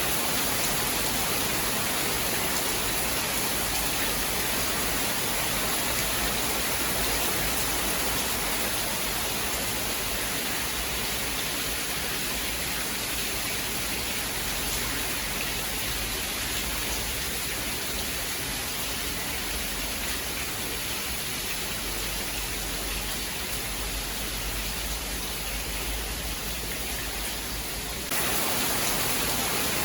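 Steady heavy rain, an even hiss with no distinct thunderclaps, rising slightly in loudness near the end.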